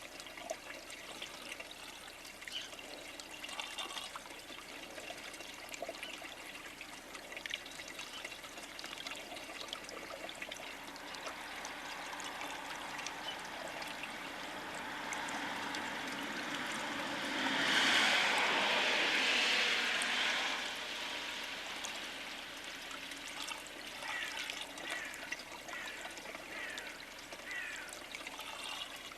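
Steady outdoor rushing noise with a swell that builds, peaks about two-thirds of the way through and fades, and scattered short chirps of small birds, clearest near the end.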